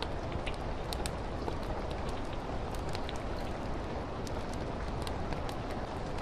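Steady rain falling against a window, mixed with a fire crackling in a fireplace: an even rain noise with scattered sharp crackles and pops at irregular intervals.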